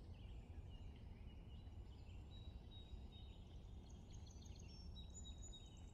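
Near silence: a faint low background hum with scattered faint, high bird chirps.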